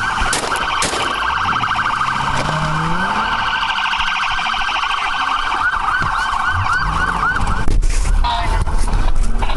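Police car siren yelping, a fast repeated up-and-down sweep, which cuts off about eight seconds in, leaving a low engine rumble and a few knocks.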